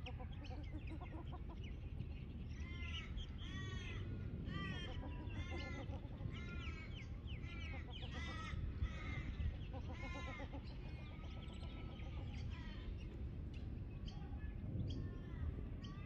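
Birds calling: runs of short, arching calls, several a second, through the middle few seconds, over a steady low rumble.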